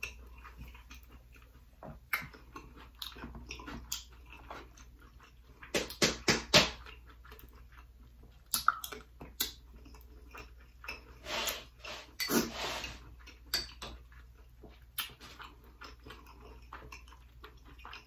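Close-miked chewing of a mouthful of spicy shrimp and rice: wet mouth smacks and clicks coming in scattered bursts, busiest about six seconds in and again around twelve seconds.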